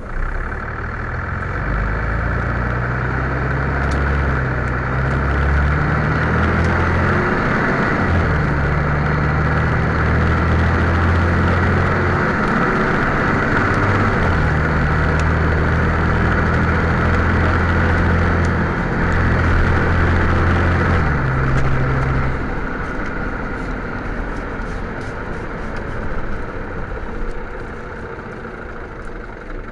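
Van Hool A320 city bus engine heard from inside the cabin, pulling and accelerating for about twenty seconds, its low drone changing pitch in steps several times, then easing off to a quieter run about three-quarters of the way through.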